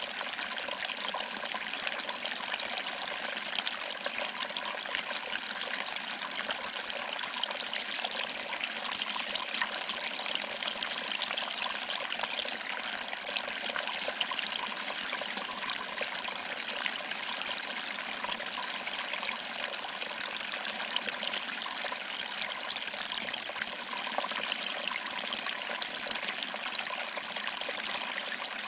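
Small waterfall: water trickling over rocks and splashing into a pool below, a steady, unbroken rush.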